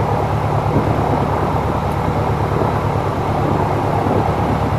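Piper Arrow's piston engine and propeller running steadily on the ground, a loud even drone heard from inside the cabin, with the air-conditioning fan blowing on medium.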